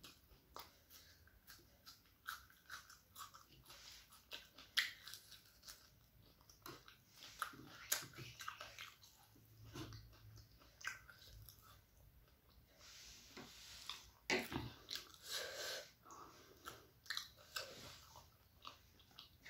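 Close-miked chewing and biting of a deep-fried egg devil with raw onion: many faint, soft crunches and mouth clicks in an irregular run.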